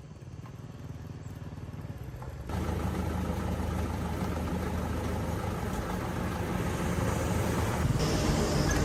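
A vehicle engine running steadily. It becomes abruptly louder about two and a half seconds in.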